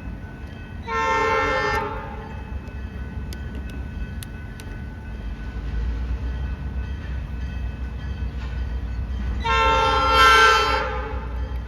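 Freight locomotive horn sounding two blasts, several notes at once: a short one about a second in and a longer one near the end. A low rumble from the train runs underneath.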